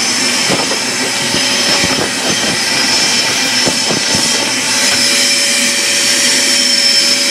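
Loud electric vacuum or blower motor running steadily with a high whine, with rattling knocks in the first few seconds. A lower steady hum joins about five seconds in.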